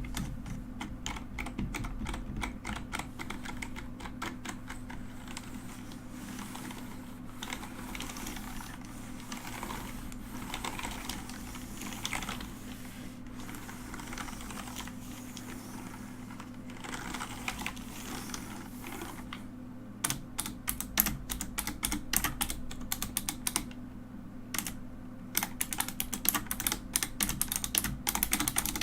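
Typing on a mechanical keyboard: a steady stream of key clicks and clacks. The keystrokes come in sharper, louder flurries from about 20 seconds in and again near the end.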